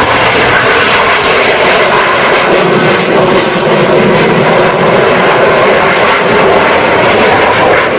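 Blue Angels jet aircraft flying past: a loud, steady jet-engine noise.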